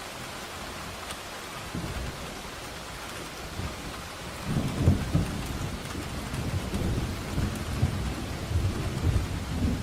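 Steady rain with rolling thunder: a low rumble that starts faintly about two seconds in and swells loud about halfway through, continuing in heavy rolls to the end.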